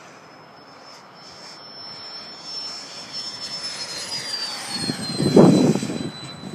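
E-flite F-4 Phantom radio-controlled electric ducted-fan jet flying past: a high fan whine that drops in pitch as it goes by, the sound growing louder to a peak about five seconds in.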